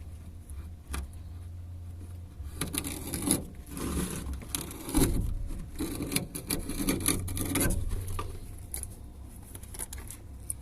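Irregular rubbing and scraping sounds, as of something being handled or worked, heaviest in the middle few seconds, over a steady low rumble.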